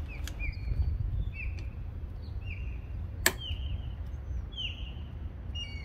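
A bird calling again and again, short whistled notes that curl down in pitch, about one a second, over a steady low wind rumble. There is one sharp click a little after three seconds in.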